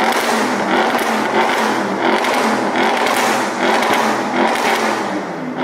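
Audi RS6's 4-litre twin-turbo V8 through an IPE aftermarket exhaust in dynamic mode, revved in quick repeated throttle blips, about one and a half a second, each rise and fall in pitch ending in a sharp crack.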